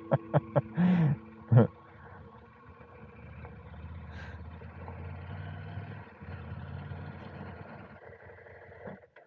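Motorcycle engine running at low revs. A quick run of sharp knocks comes in the first second or two, and the sound cuts off abruptly near the end.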